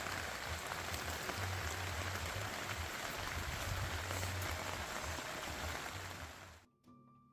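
Steady rain falling, a dense crackling hiss with a low rumble underneath, which fades out near the end.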